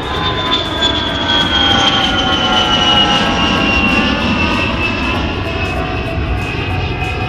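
Jet airplane engines: a high whine gliding slowly down in pitch over a steady rumble.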